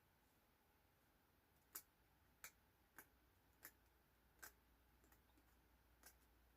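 Faint clicks of a fingernail picking at the edge of a washi tape roll to find its loose end: about six soft ticks, unevenly spaced, over near silence.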